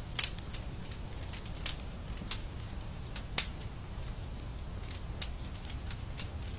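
Wood fire crackling in a fireplace: irregular sharp pops and snaps over a steady low rumble of the flames, with the loudest pops just after the start and about three and a half seconds in.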